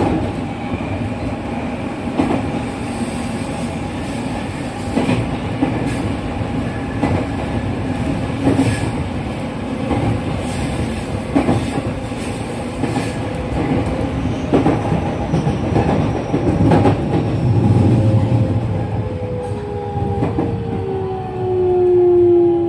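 JR West 207 series electric train running, heard from inside the car, with its original traction motors: steady rolling noise and repeated clicks of the wheels over rail joints. From about two-thirds of the way in, the motor whine falls in pitch as the train slows.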